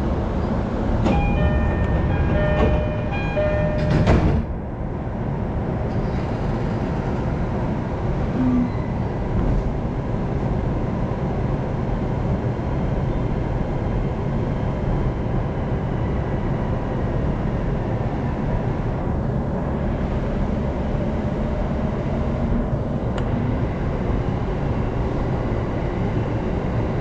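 Inside a train carriage: a short chime of repeated notes, then a sharp thump about four seconds in, then the steady rumble of the train running along the track.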